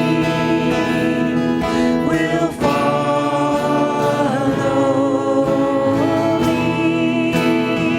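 Worship song performed by a church praise team: singing with acoustic guitar.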